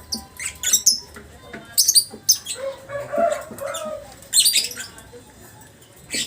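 Lovebird chattering in its shrill 'ngekek' song, coming in several short, high-pitched bursts.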